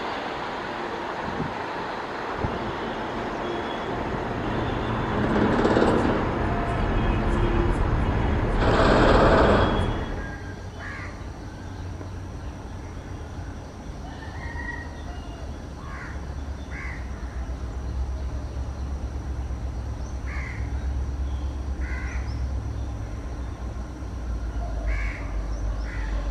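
Freight train running past on the rails, its wagon noise swelling to its loudest about 6 and 9 seconds in and then cutting off. After that comes a distant locomotive's low, steady rumble, with crows cawing about eight times.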